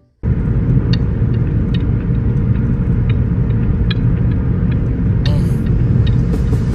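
Steady, loud low rumble of a vehicle in motion, with scattered small clicks and rattles.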